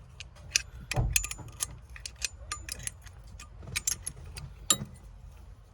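Small metal hand tools clinking and tapping in quick, irregular clicks, some ringing briefly, with a duller knock about a second in, as a spanner is worked on the bonnet release cable's retaining nut.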